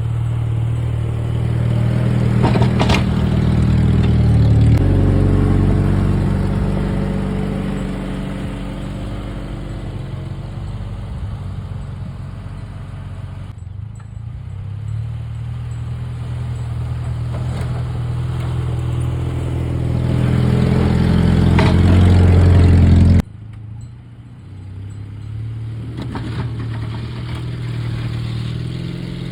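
Willys Jeep engine running under load while plowing snow, its revs rising and falling with the throttle. It climbs to a peak a little over 20 seconds in, then drops off abruptly.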